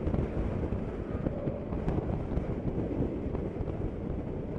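Steady low rumble of a car driving, the road and wind noise picked up by a dash cam, with a few faint clicks.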